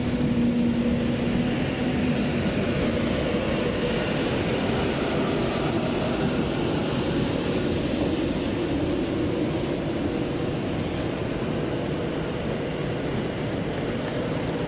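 Steady running rumble of a moving vehicle, with a low steady hum and several short high hissing noises.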